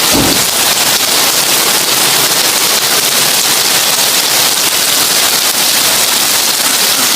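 Heavy rain on a tin roof: a steady, dense crackling hiss, with a brief low thump right at the start.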